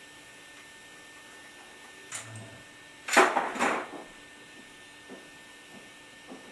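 A sharp knock, then about a second later a louder, rough clatter lasting just under a second, followed by a few faint taps, over a steady low hum: handling noise from tools or parts during hands-on plumbing work.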